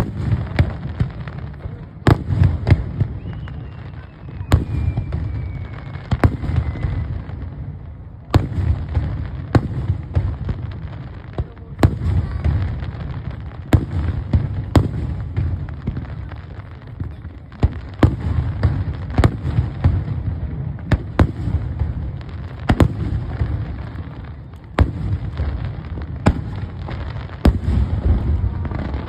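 Fireworks display: aerial shells bursting about once a second, sharp bangs over a continuous deep rumble, with a faint falling whistle a few seconds in.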